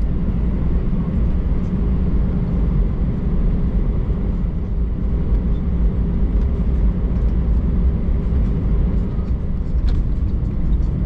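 Steady low rumble of an Airbus A319 heard from inside the cabin while taxiing: engines at low thrust and the wheels rolling over the taxiway. A few faint ticks sound above it.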